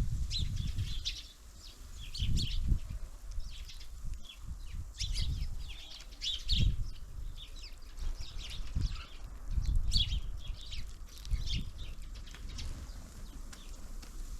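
Small birds at a feeder giving many short, high chirps and calls, overlapping one another. Repeated low flutters and thumps come close to the microphone, several times over, and are the loudest sounds.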